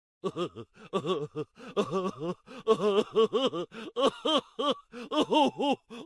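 A laughing sound effect: a voice laughing in a quick run of short syllables, each rising and falling in pitch, starting a moment after a brief silence.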